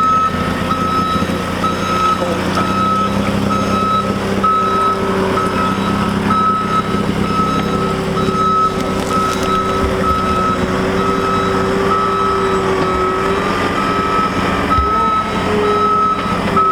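Vehicle reversing alarm beeping steadily at a single pitch, a little faster than once a second, over an engine running.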